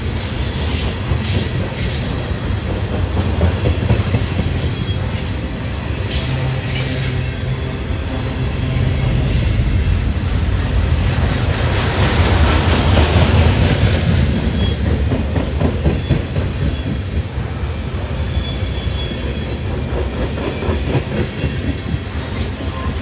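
A train rolling by: a steady heavy rumble of rail cars with clicking wheels and brief high wheel squeal, swelling louder about halfway through.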